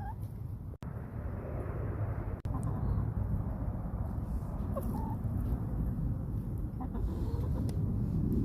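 Backyard chickens clucking with short, scattered calls over a steady low rumble.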